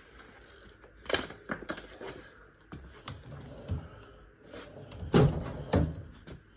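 Workshop clatter of tools and metal parts being handled and moved: a string of knocks and clinks, with the heaviest thud about five seconds in and another just after it.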